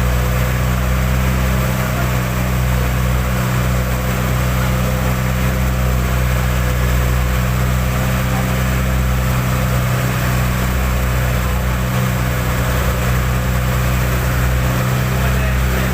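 Boat engine running steadily as a low, even drone, with a constant hiss over it.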